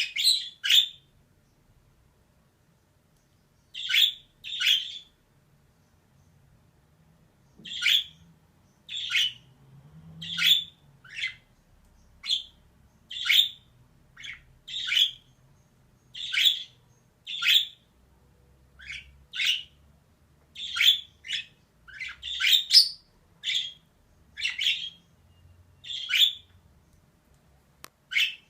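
Female budgerigar giving short, sharp chirp calls one after another, roughly one or two a second, with a pause of a few seconds about a second in.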